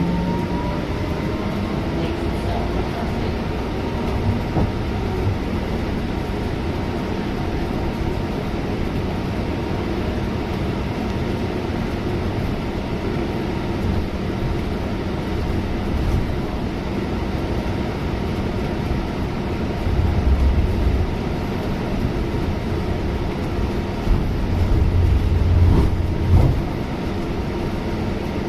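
Scania C250EB bus heard from inside the cabin: steady engine and road rumble, with a rising whine near the start and deeper, louder surges of engine noise about twenty and twenty-five seconds in.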